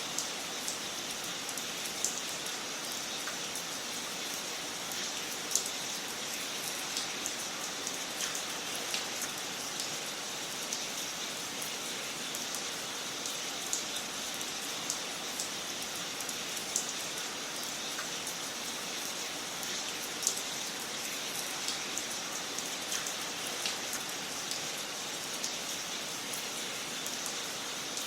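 Wood fire crackling in a fireplace: a steady hiss with irregular sharp pops and snaps, a few of them louder than the rest.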